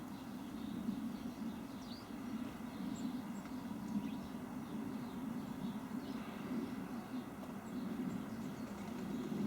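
Small garden birds giving short, faint chirps and calls here and there over a steady low rumble.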